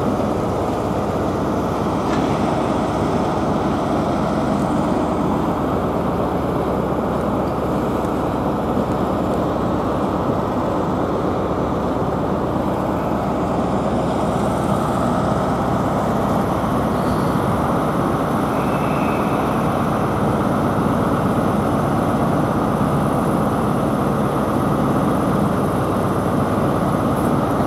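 Steady hum and rumble of LNER intercity trains standing at the platform, a Class 91 electric locomotive and a Class 800 Azuma, at an even level throughout.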